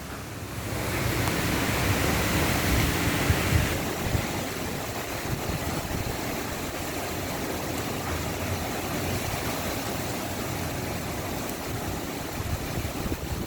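Typhoon wind and heavy rain making a loud, steady rushing noise. A gust swells about a second in and eases off after about four seconds.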